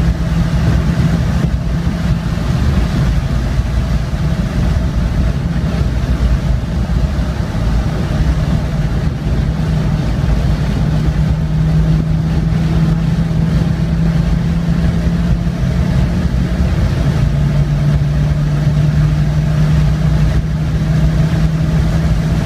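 2003 Audi A4 Avant engine pulling hard at speed on track, heard inside the cabin over tyre and wind noise. It is a steady drone whose pitch steps down once about 17 seconds in.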